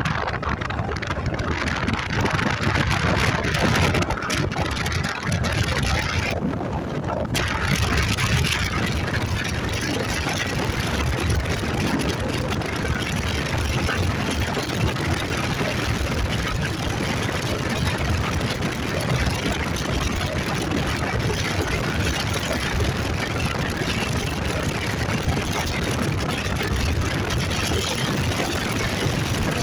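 Motorcycle engine running steadily on the move, under a constant rushing noise.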